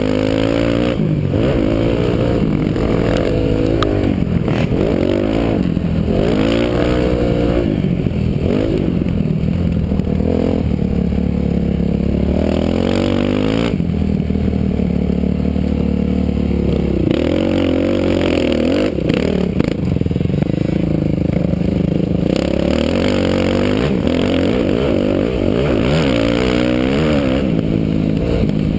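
Dirt bike engine heard from a helmet camera, revving up and dropping off again and again as it is ridden around a motocross track, with rushing noise over the microphone.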